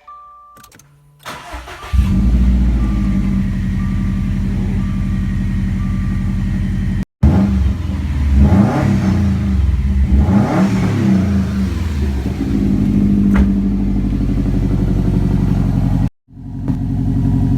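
2016 Subaru WRX STI's turbocharged flat-four boxer engine cold-starting through a Magnaflow Competition muffler-delete catback with 4-inch tips. It cranks briefly, catches about two seconds in and settles into a loud, deep cold idle. It is blipped up and down twice, then drops back to a steady idle.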